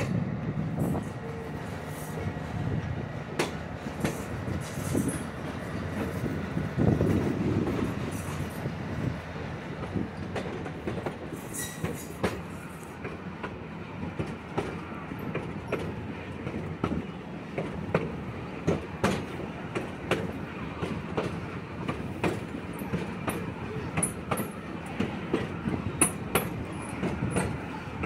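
Train cars of a diesel-hauled train rolling along, heard from an open gondola car: a steady low rumble with frequent sharp, irregular clicks and clanks of the wheels over the rail joints.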